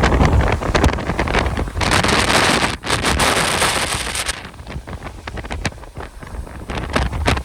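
Strong Santa Ana wind gusts buffeting the microphone, with a low rumble and scattered crackles. A louder hissing rush of wind comes about two seconds in and dies down a little after four seconds.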